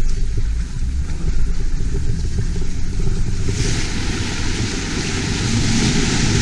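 Off-road vehicle driving, its engine and running gear making a heavy low rumble. About halfway through, a loud steady hiss joins.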